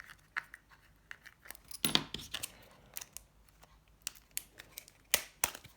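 Scattered sharp plastic clicks and ticks from the snap-fit plastic housing of a Nokia 7373 mobile phone being pried apart, the loudest clicks about two seconds in and near the end.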